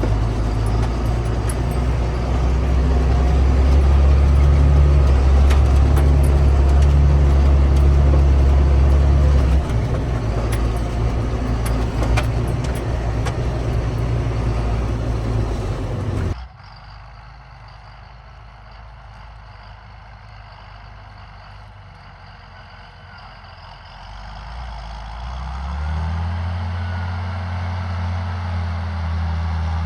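John Deere 7800 tractor's six-cylinder diesel running steadily under load, pulling an Amazone Catros+ disc harrow, with scattered clicks and rattles. About 16 seconds in, the sound cuts abruptly to a much quieter, more distant engine hum, which swells louder again a few seconds before the end.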